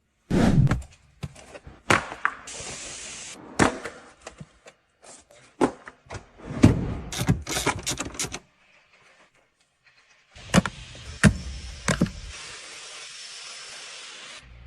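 Hands-on work on a car: a run of sharp knocks and clunks, the loudest about half a second in, with stretches of steady hiss between them.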